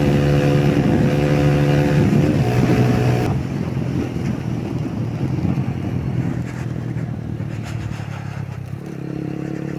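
Yamaha YBR125's single-cylinder four-stroke engine running at steady high revs under wind rush. About three seconds in, the engine note drops away, leaving mostly wind noise, and a lower steady engine note comes back near the end.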